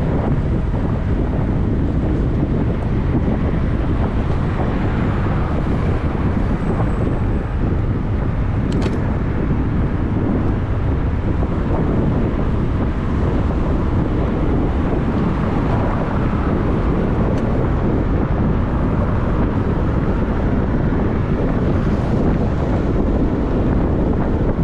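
Wind rushing over the microphone while riding a bicycle, a steady low rumbling noise, with one brief click about nine seconds in.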